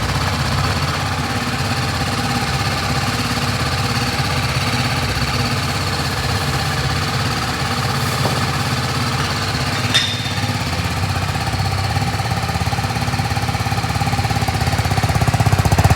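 BMW motorcycle engine idling steadily with a fast, even beat. There is a single sharp click about ten seconds in, and the engine gets louder near the end.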